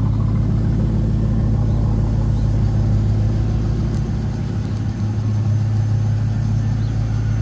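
1998 C5 Corvette's LS1 V8 idling steadily after a cold start, a deep even rumble.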